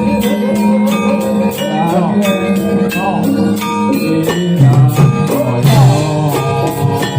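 Javanese gamelan music accompanying a jathilan horse dance: metallophones holding steady notes under a regular high jingling beat, with a voice singing in gliding pitch. About two-thirds of the way through, heavier low notes come in.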